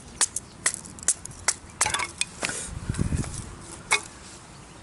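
A wooden baton knocking on the spine of a knife driven into firewood, splitting it into kindling: about eight sharp, irregular knocks, with a short low rumble about three seconds in.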